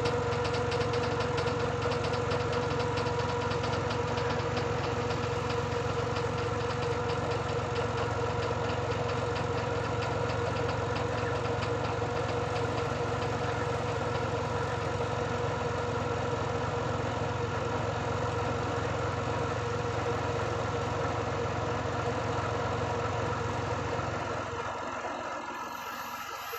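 Tractor diesel engine running steadily at a low idle-like speed, with a deep rumble and a throbbing knock. The low rumble fades away in the last couple of seconds.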